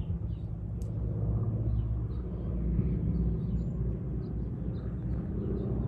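Distant fireworks: a steady low rumble of bursts, with faint scattered crackles and one sharp crack about a second in.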